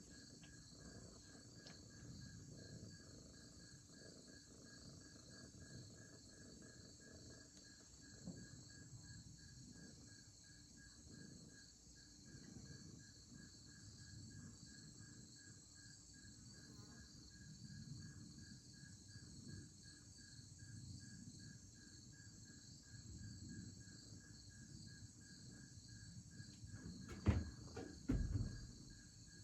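A chorus of crickets chirping steadily with a fast pulsing trill, over a faint low rumble. Two short, louder thumps come near the end.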